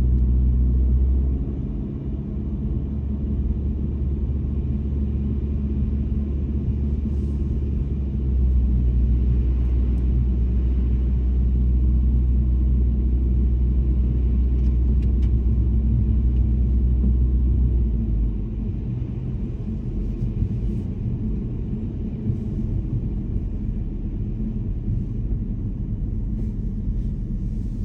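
A car driving on snowy roads: a steady low rumble of engine and tyre noise. Its deepest drone drops away about a second in, comes back around eight seconds in, and drops away again about eighteen seconds in.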